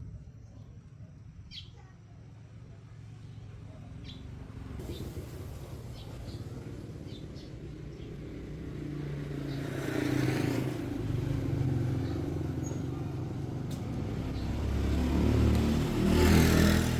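A motor vehicle engine running, a low rumble that builds over several seconds and is loudest near the end.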